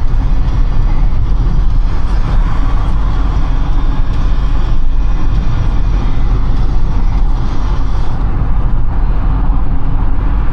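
Steady road noise of a car being driven: a loud, even low rumble of engine and tyres with a hiss over it.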